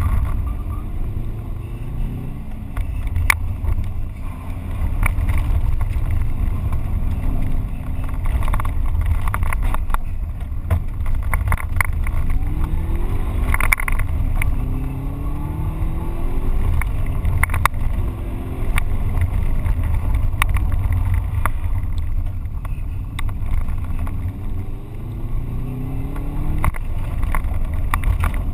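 Subaru Impreza GT's flat-four engine heard from inside the cabin, revving up again and again as the car accelerates hard, over a heavy low rumble of road and wind noise. Scattered sharp knocks come from the road under the car.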